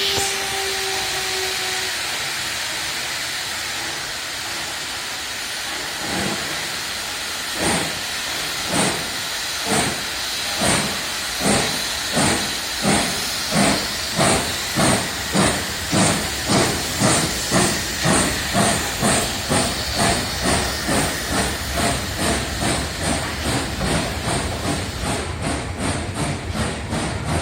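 Steam locomotive Gr 625.100 starting away: the end of a whistle blast and a steady steam hiss, then, about six seconds in, exhaust chuffs begin slowly and quicken from about one a second to about two a second as the engine gathers speed, growing softer near the end.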